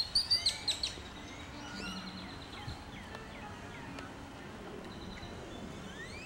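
Songbirds chirping and calling: a quick run of loud, sharp chirps in the first second, then scattered fainter chirps and whistles.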